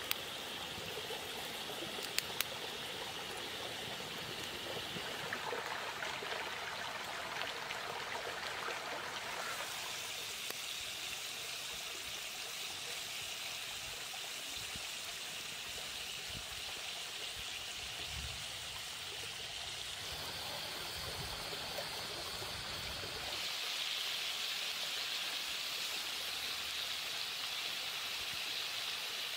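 Pork-stuffed bitter melon rings frying in oil in a pan over a wood fire, giving a steady sizzle. A few sharp crackles from the burning firewood sound about two seconds in.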